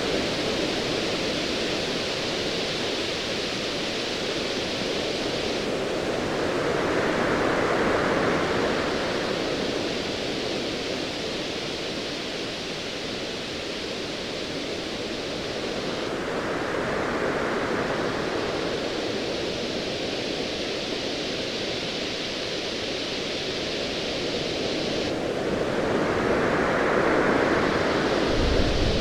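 Ocean waves swelling and falling back roughly every nine to ten seconds over a steady hiss of surf. A low rumble comes in near the end.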